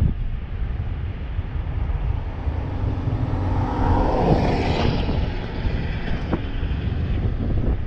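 Wind rumbling on the microphone of a moving electric scooter, with road noise. A louder swell with a low hum comes about four seconds in.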